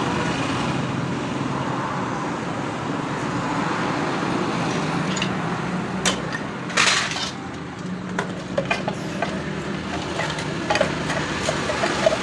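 Metal clicks and knocks as the unbolted clutch cover of a motorcycle engine is worked loose and taken off, with a short scrape about seven seconds in and a run of small clicks after it. A steady drone of road traffic runs underneath.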